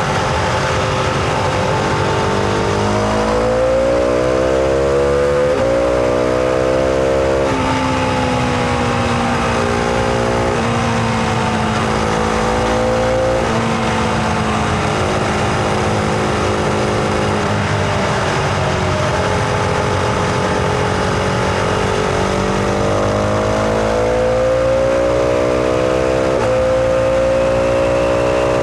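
Husqvarna Vitpilen 701's single-cylinder engine under way: it pulls up through the revs twice in quick succession a few seconds in, with a gear change between, then runs at a fairly steady speed before climbing in revs again near the end.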